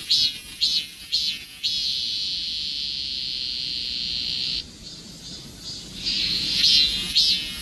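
Cicada singing: a run of pulsed buzzing notes about two a second, then one steady high buzz that cuts off suddenly after about three seconds. The pulsed notes start again near the end.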